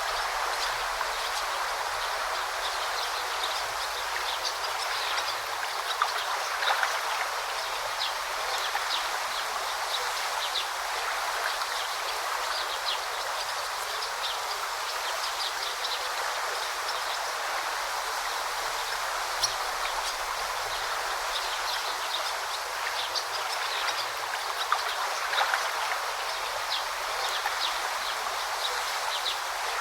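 Steady babbling flow of a forest stream, with many short, high chirps of small birds scattered over it.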